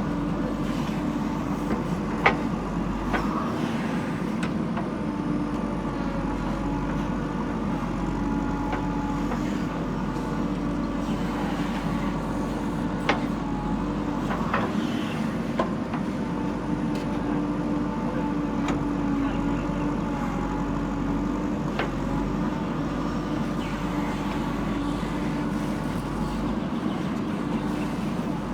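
Diesel engine of a JCB backhoe loader running steadily under work, with a handful of short sharp knocks scattered through it.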